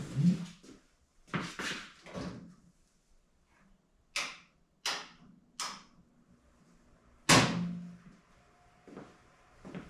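A series of knocks and clunks: three sharp ones about a second apart near the middle, then a loud slam with a short ring about seven seconds in.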